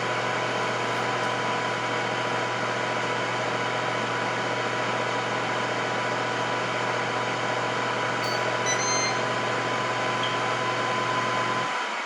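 Electric air fryer running with a steady fan hum and a high whine. Just before the end the hum cuts out and the whine slides down in pitch as the fan winds down: the appliance switching off at the end of its cooking cycle.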